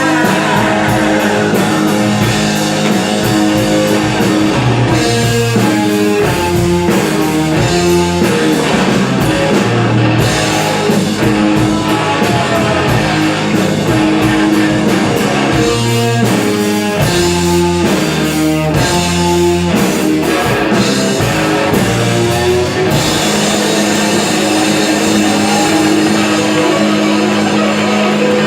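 Rock band playing an instrumental passage with guitar and drums, without singing, with stop-start chord hits through the middle.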